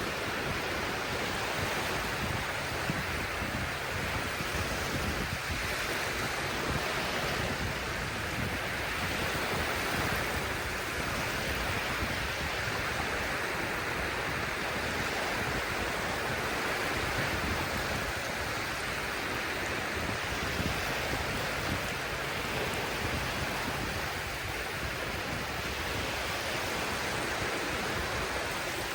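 Sea surf washing onto the shore: a steady wash of waves that swells and eases slowly.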